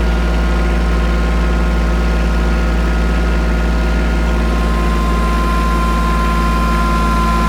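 Kubota compact tractor's diesel engine running steadily while its front-end loader bucket is worked into a mulch pile. A faint steady high whine grows stronger about five seconds in.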